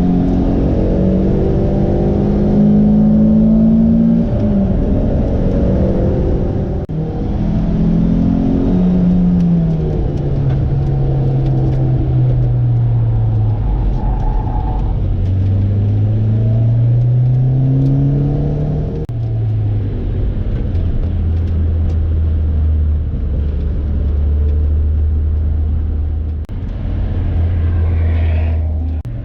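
Lotus sports car engine driven hard on a race track: the engine note climbs through the revs with sudden drops at gear changes, falls away while slowing for a corner, climbs again, then holds a steady note for the last several seconds.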